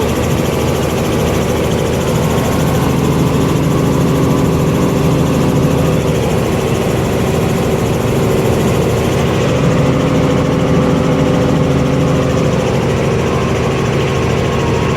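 Helicopter engine and rotor running steadily, a continuous even drone with a fast rhythmic pulse.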